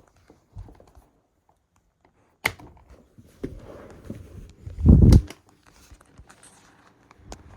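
Handling noises: scattered clicks, knocks and rustles, with one loud low thump about five seconds in.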